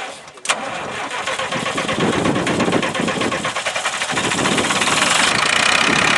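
Tractor engine starting: a sharp click about half a second in, then the engine running with rapid even firing that grows louder over the next few seconds.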